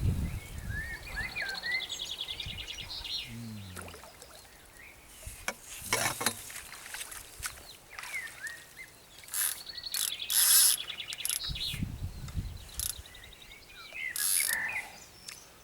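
Small birds calling and singing, with short chirps and twice a fast rattling trill, mixed with several brief rustling noises close by.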